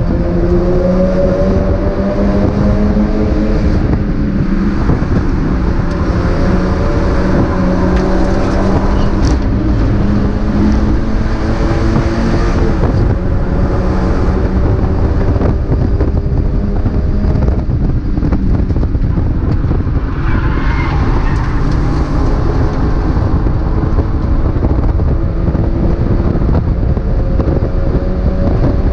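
Mazda MX-5 race car's four-cylinder engine running hard at racing speed, its revs repeatedly climbing and falling through gear changes and braking.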